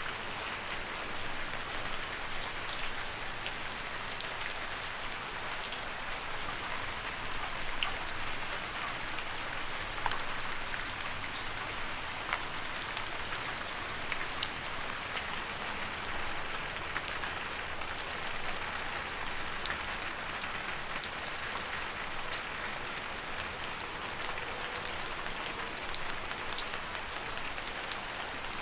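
Steady rain falling, an even hiss with many sharp individual drop taps scattered through it.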